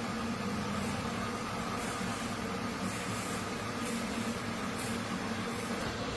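Factory machinery running with a steady, even hum and no distinct strokes or impacts.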